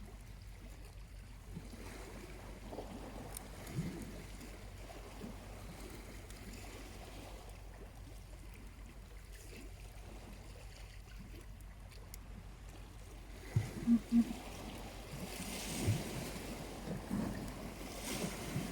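Small waves washing gently onto a beach, one wash swelling near the end, over a steady low rumble of wind and surf. A few brief knocks come about three-quarters of the way through.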